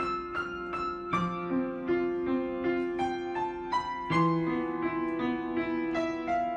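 Background piano music, slow and gentle, with notes struck every half second or so.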